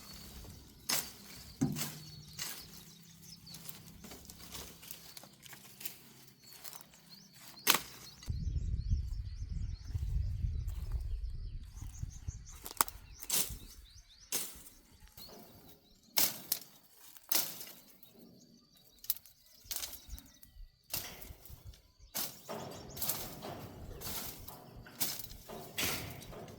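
Scattered sharp knocks and clicks of hand tools on metal during repair work on a walking tractor, with a stretch of low rumbling noise about a third of the way in.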